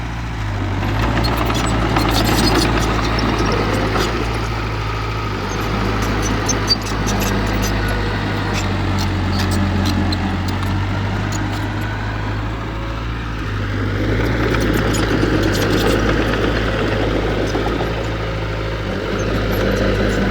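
Heavy diesel earthmoving machinery running, its engine note swelling and easing with the load, with scattered light metallic clicks and clanks.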